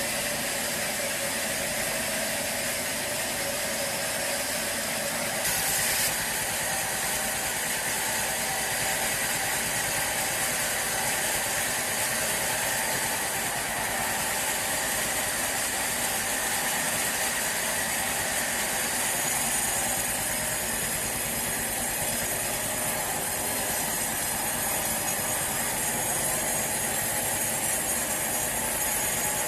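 Sawmill machinery running steadily: a continuous mechanical noise with a held whine and hiss, briefly louder about six seconds in.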